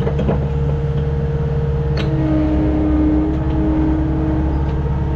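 Skid steer engine running steadily under work, a constant drone, with a couple of sharp knocks, one just after the start and one about two seconds in.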